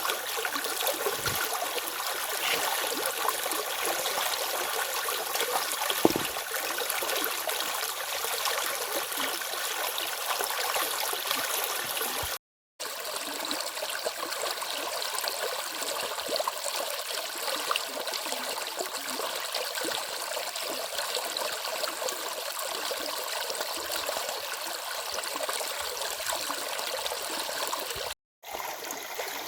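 A stream of running water, flowing steadily. The sound cuts out briefly twice, about twelve seconds in and near the end.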